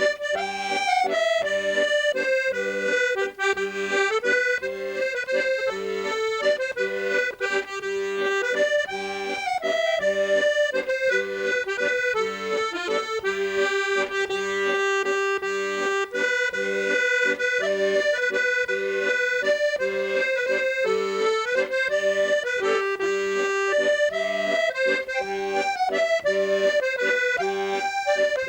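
Accordion playing an Irish traditional tune solo: a quick running melody over steady held bass notes.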